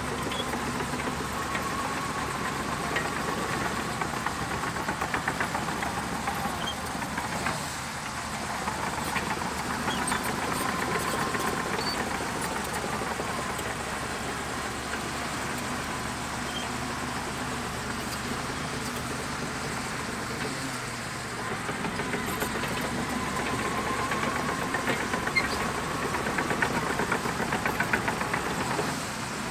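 Shantui DH17C2 bulldozer's diesel engine running steadily while working sand, with a faint whine that rises and falls.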